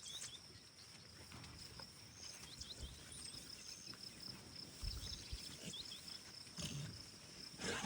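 Faint pasture ambience: a steady high-pitched insect drone like crickets, with scattered short chirps and a few dull thumps in the second half.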